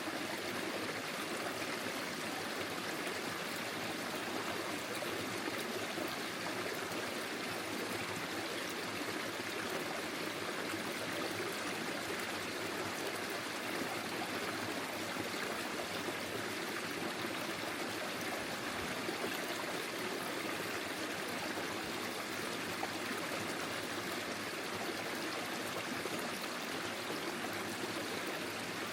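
Forest stream flowing steadily, the water trickling and gurgling over its bed.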